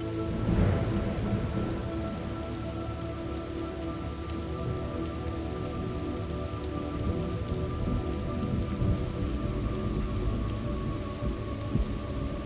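Steady rain falling, with a roll of thunder that swells about half a second in and fades away over the next few seconds.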